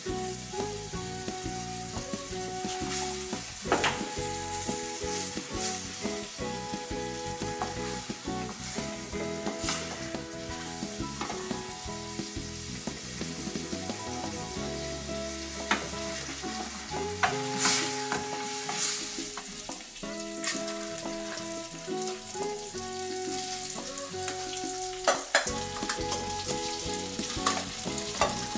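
Sliced onion and bacon sizzling steadily as they fry in butter in a stainless frying pan, stirred with a wooden spoon, with a few sharp knocks of the spoon against the pan.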